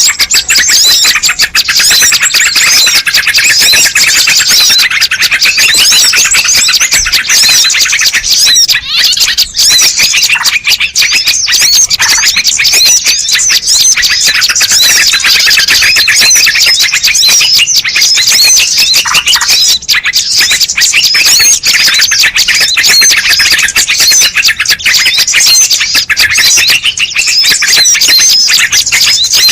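Bird-lure recording: a dense, loud chorus of many small birds chirping and twittering at once, without a break.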